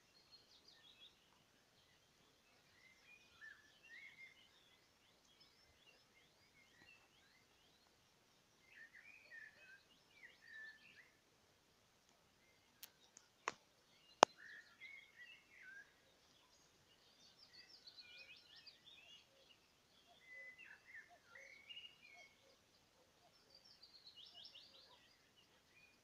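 Faint songbirds singing in short, scattered phrases, with a few quick trills. About halfway through come three sharp clicks within under two seconds, the last much the loudest.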